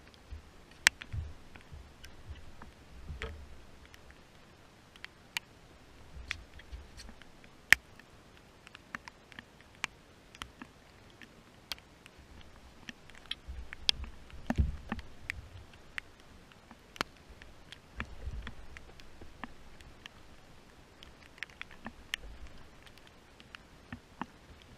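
Irregular sharp ticks of raindrops hitting the camera, with a few bursts of low rumble.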